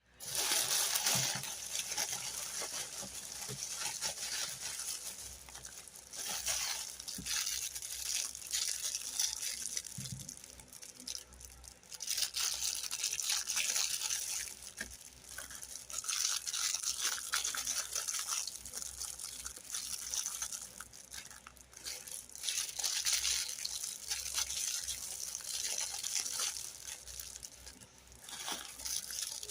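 Crisp rustling and scraping from a toy being handled, going on in waves that ease off briefly about a third of the way in, around two-thirds and just before the end.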